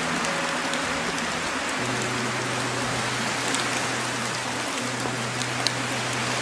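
Steady rain-sound backing track with scattered sharp drop ticks, over low sustained tones that drop to a lower note about two seconds in.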